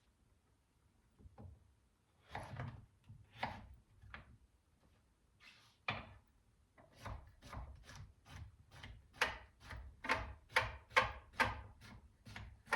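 Kitchen knife dicing a zucchini on a cutting board: a few separate cuts at first, then, from about halfway in, a steady run of chops at about two to three a second.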